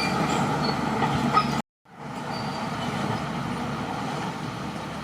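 Crawler bulldozer's diesel engine running steadily while working. The sound breaks off into silence about one and a half seconds in and comes back a moment later.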